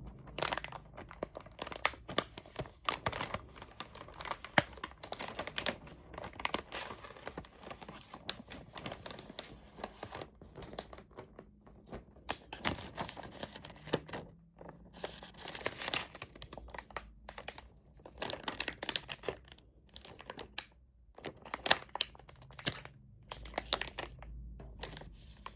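Plastic wrapping crinkling and rustling as it is handled and pulled off a new mechanical keyboard, in uneven spells broken by a few short pauses.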